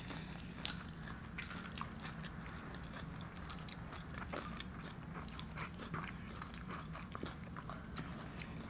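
Eating sounds up close: scattered crunching and clicking of chewing, as tortilla chips and a burrito bowl are eaten, with the sharpest clicks in the first second and a half. A faint steady low hum runs underneath.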